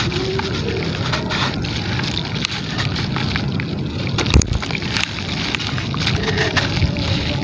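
Gritty material crumbling and dropping into water, a steady sloshing wash full of small crackles, with one sharper knock about four seconds in.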